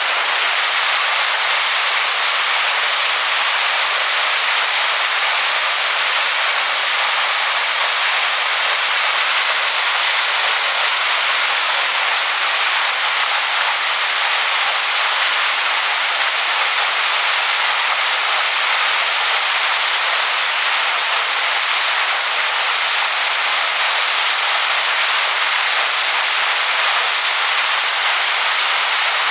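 Waterfall splashing onto rocks: a steady, unbroken hiss of falling water, bright and without any deep rumble.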